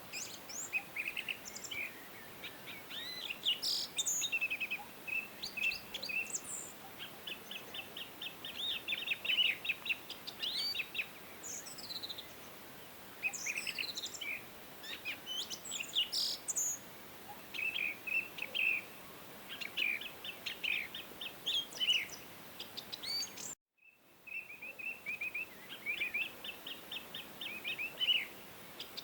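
Songbirds chirping and singing in quick, overlapping trills of rapid notes over a faint steady hiss. The sound cuts out completely for a split second about four-fifths of the way through, then the birdsong resumes.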